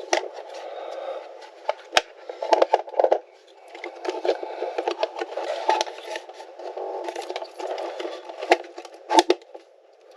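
Hands handling plastic electrical connectors and a module: irregular clicks, taps and scraping, with a few sharper clicks near the end.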